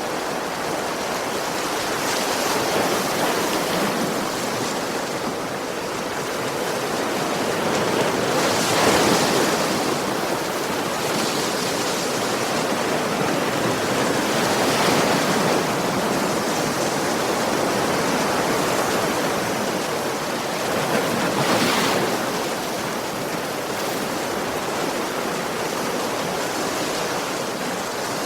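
Ocean waves breaking on a beach: a continuous wash of surf that swells with a fresh wave roughly every six seconds.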